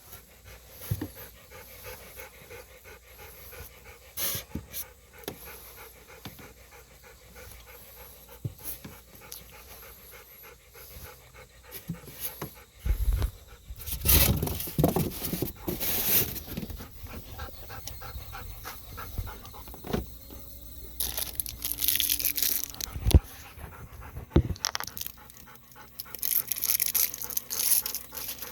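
Golden retriever panting in a quick, steady rhythm, with louder bursts of noise about halfway through and again near the end.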